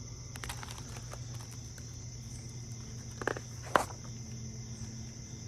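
A steady high-pitched whine over a low hum, with two short clicks about three and four seconds in.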